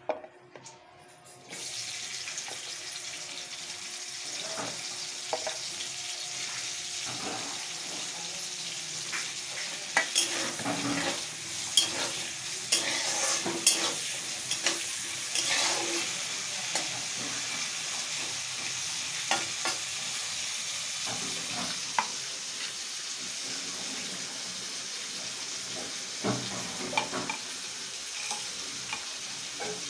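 Pieces of drumstick (moringa) hit hot oil in a kadai and start sizzling suddenly about a second and a half in. A steady frying hiss follows, with the clicks and scrapes of a metal spatula stirring them, thickest through the middle.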